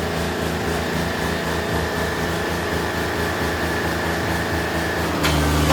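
Tractor diesel engine running steadily with a pulsing low throb and a steady high whine. Near the end the sound changes abruptly to a louder, steadier running.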